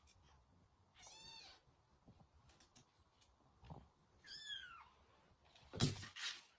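A cat meowing twice, short calls, the second sliding down in pitch, followed near the end by a brief loud noise.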